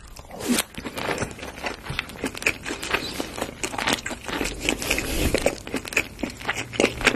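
Close-miked chewing of a mouthful of rice topped with flying fish roe and cheese sauce: a dense, irregular run of small crackling pops as the roe bursts between the teeth.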